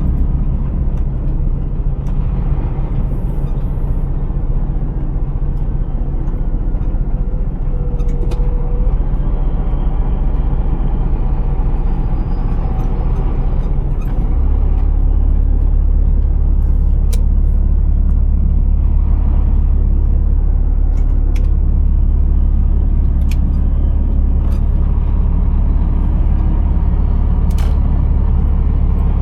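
Scania R480 truck's straight-six diesel engine running steadily, heard as a low drone with scattered small clicks and rattles. About halfway through, the low rumble gets deeper and a little louder.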